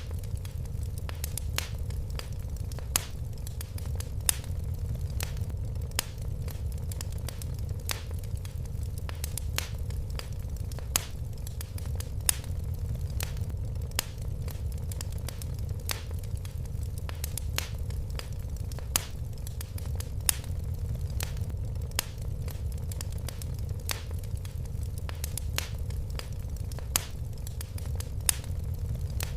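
Fire burning in a fireplace: a steady low rumble of flames under irregular sharp crackles, several a second.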